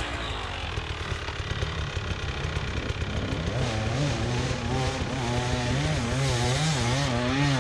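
Beta 300 RR two-stroke enduro bike engine running under the rider. The revs are fairly steady at first, then rise and fall repeatedly with the throttle from about halfway through.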